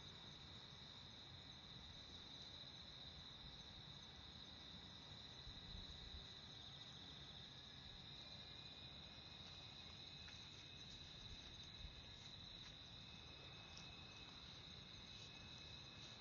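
Faint, steady high-pitched chirring of insects, unbroken throughout, over a low background hush.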